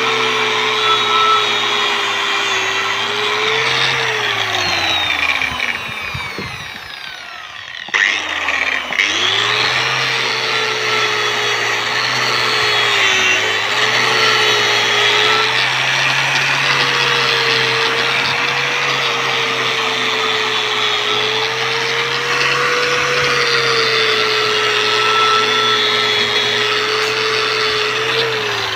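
Angle grinder with a wire cup brush scrubbing carbon crust and rust off a motorcycle exhaust header pipe, a harsh scraping hiss over the motor's whine. The grinder winds down, its pitch falling, about five seconds in. It starts up again about eight seconds in and runs steadily, its pitch wavering slightly under load.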